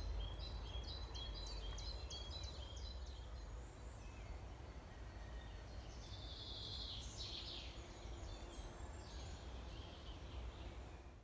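Wild birds singing: a run of short, quickly repeated high notes in the first three seconds, and another stretch of song about six to eight seconds in, over a steady low outdoor rumble.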